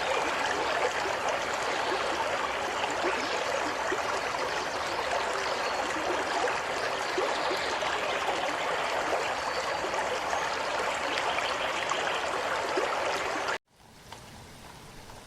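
Waterfall: a steady rush of falling water. It cuts off suddenly near the end, leaving only a faint hiss.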